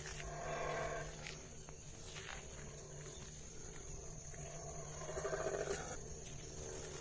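An animal calling twice, each call about a second long: once at the start and again near the end. A steady high-pitched whine runs underneath.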